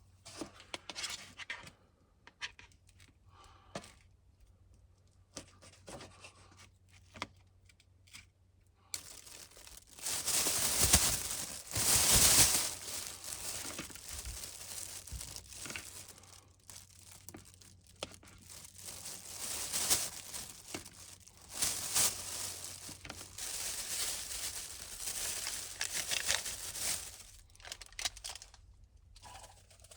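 Crinkling and tearing of some material being handled, faint and scattered at first, then louder and continuous from about a third of the way in, with sharper peaks.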